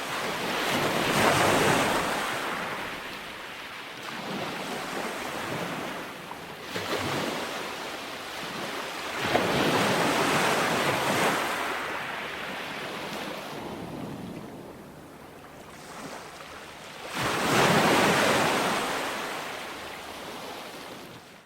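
Ocean waves breaking and rolling up a beach, with three big surges, about a second in, midway and near the end, each washing back down gradually.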